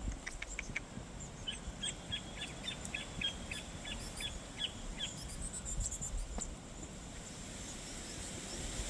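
Small birds chirping: a quick run of short repeated chirps, about three a second, from early on to about halfway, with thin high chirps scattered throughout over a low rumble of wind.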